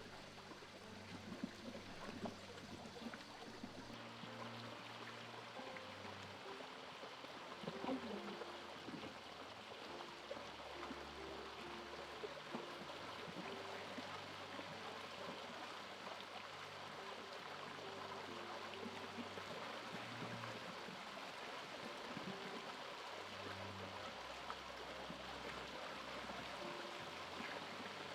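Steady rush of running stream water, with soft low music notes shifting underneath.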